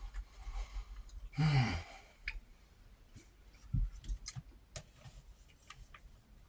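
A man's short voiced sigh, falling in pitch, about a second and a half in, followed by scattered small mouth clicks and taps while he eats.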